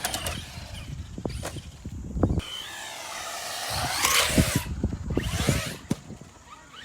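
Electric motors of hobby-grade RC cars whining up and down in pitch as they accelerate and slow, with several sharp knocks of the cars on the skatepark concrete.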